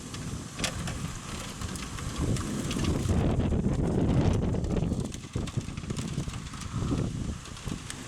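Thunderstorm: a low rumble that swells and fades, over a steady hiss of wind and rain, with a few sharp ticks.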